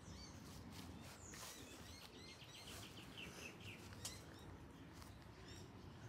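Faint bird chirping: a scatter of short, high chirps with a quick trill of rapid notes a little before the middle. A low steady background hum sits under it.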